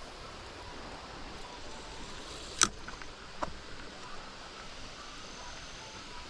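Steady rush of a flooded river's current, with one sharp click about two and a half seconds in and a softer click about a second later.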